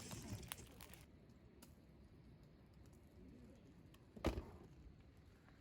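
A few faint clicks, then a single sharp knock about four seconds in, over a quiet background.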